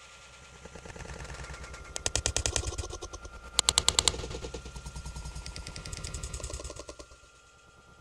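Clatter sound effect: bursts of rapid rattling, about a dozen knocks a second, over a low rumble and a faint steady tone. The loudest burst comes about halfway through, and the rattling dies down near the end.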